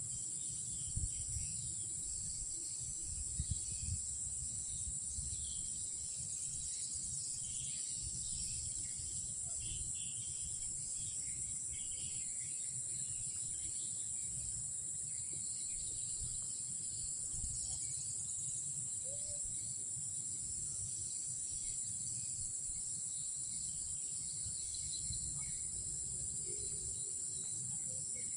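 Steady high-pitched chorus of night insects, with scattered fainter chirps and a low rumble underneath.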